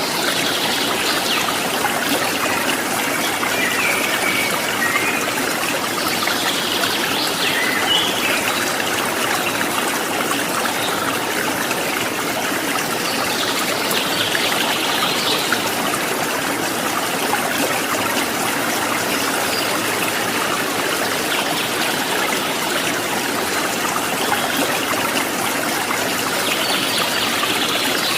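A small stream trickling and splashing steadily, with a few faint bird calls now and then.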